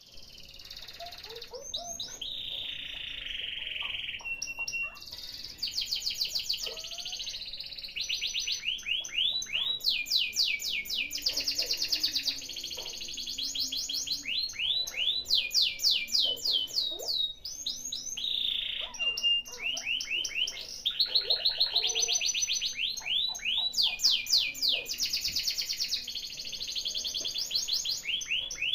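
Domestic canary singing a long, continuous song of fast rolling trills: rapid strings of repeated sweeping notes, broken by short pauses, the kind of recording played as a lure to prompt a canary that is reluctant to sing.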